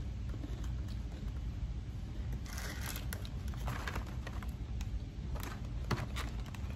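Faint, scattered crunches of a chocolate sandwich cookie (Trader Joe's Halloween Joe-Joe's) being bitten and chewed, over a low steady hum.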